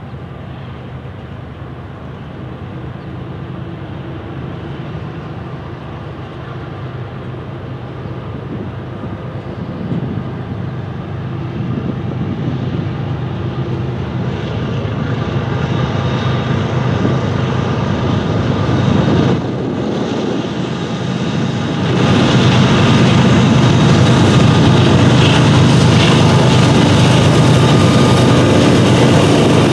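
Freight train passing: steady rumble of covered hopper wheels on the rail, with the drone of two Norfolk Southern mid-train distributed-power diesel locomotives growing louder. The drone steps up about two-thirds of the way through and is loudest as the units go by near the end.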